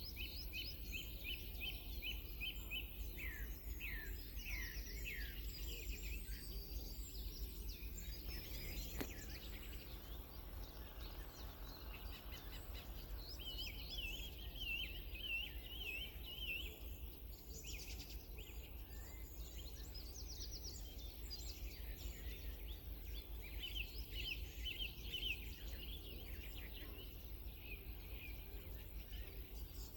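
Songbirds singing: phrases of quick, repeated high notes and trills, one after another, over a steady low background hum.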